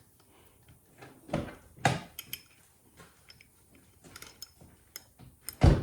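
Metal tools and parts clinking and knocking during hand work on a small engine: a few scattered knocks, two about a second and a half and two seconds in, the loudest near the end, with faint ticks between.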